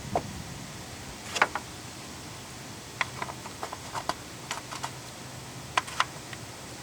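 Irregular light clicks and taps of small hard parts being handled, about a dozen over several seconds, with a steady low background hiss.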